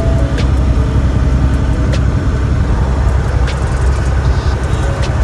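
Semi truck on the move, its engine and tyres making a steady low rumble heard from inside the cab.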